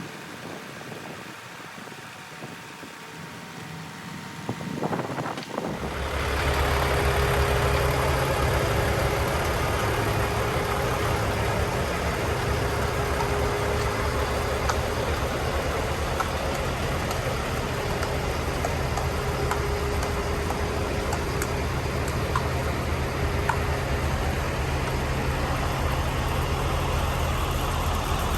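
Diesel truck engine idling steadily. It comes in suddenly about six seconds in, after a quieter stretch.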